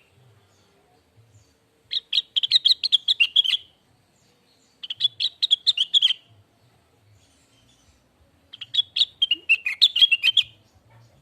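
Blue-winged leafbird (cucak wilis) singing: three phrases of rapid, high chirps, each lasting a second and a half to two seconds, with pauses between. The last phrase dips lower before it ends.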